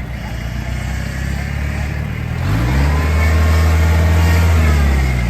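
Off-road 4x4's engine idling, then revving up about two and a half seconds in, held at high revs and dropping back near the end.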